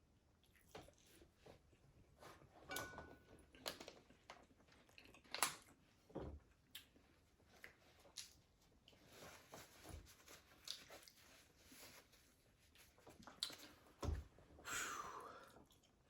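Close-miked chewing and crunching of crispy fried food: irregular crunches, bites and mouth clicks, with one longer, louder sound near the end.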